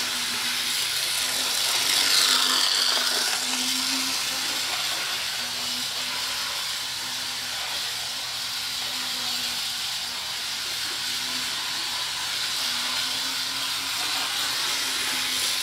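HO scale model locomotive running a lap of its track: a steady electric-motor hum over a constant hiss.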